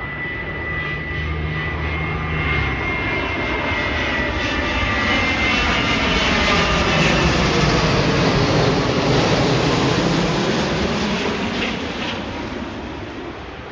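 Airliner passing close by, its engine noise swelling to a peak about two-thirds of the way through and then fading, with a sweeping, phasing rush. A high steady whine sounds at first and fades out about halfway through.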